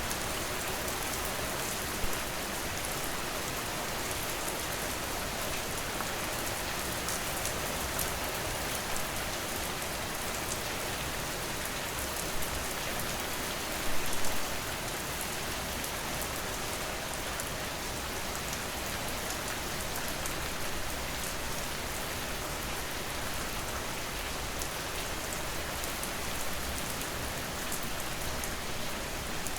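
Steady rain falling, an even hiss with no pauses, with a few brief louder bursts of drops, the largest about halfway through.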